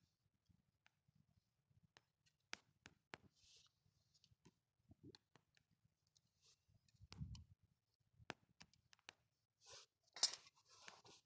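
Faint campfire crackle: wood burning with scattered sharp pops and ticks. There is a soft low thump about seven seconds in and a short rustle near the end.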